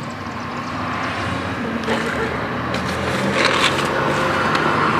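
A motor vehicle's engine running nearby, growing slightly louder, with a few light knocks as things are moved about in an open car trunk.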